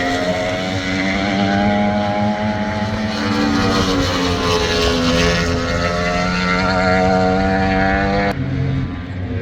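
Racing superbike engines held at high revs as the bikes run flat out, several engine notes overlapping and slowly shifting in pitch. The sound drops abruptly a little after eight seconds in.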